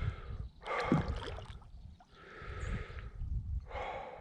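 A person breathing heavily, three breathy exhales about a second and a half apart, over a low rumble of handling noise.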